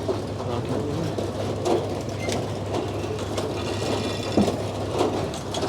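Frick sawmill running: a steady low hum with scattered clanks and knocks, and a brief higher-pitched rattle about three and a half seconds in.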